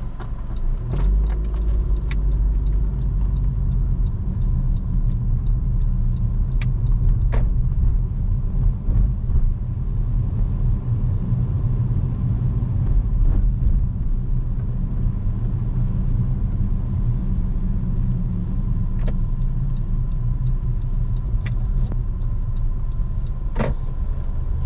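Car cabin noise while driving: a steady low rumble of road and engine, with scattered sharp clicks and a louder knock near the end.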